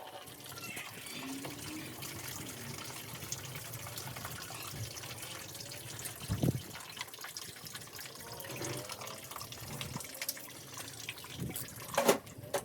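Liquid trickling steadily as fluids drain from a 1997 Honda CR250 dirt bike. There is a knock about halfway through and two louder knocks near the end.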